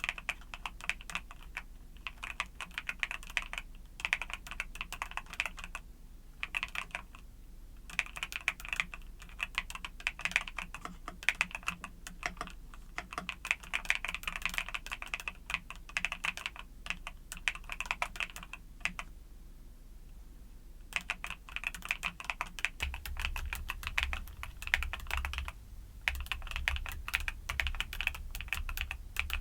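Typing on a mechanical keyboard with YUNZII Cocoa Cream switches: fast runs of crisp key clicks, broken by brief pauses, with a longer pause about two-thirds of the way in. A faint low hum runs underneath and gets a little louder near the end.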